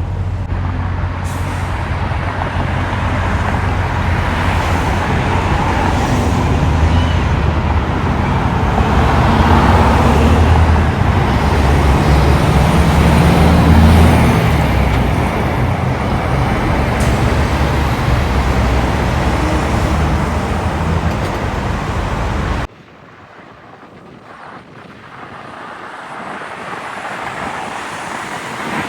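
Semi-truck diesel engine and tyres rumbling past at the roadside, loudest about halfway through. The sound cuts off suddenly about two-thirds of the way in, leaving quieter road noise that builds again as another vehicle approaches near the end.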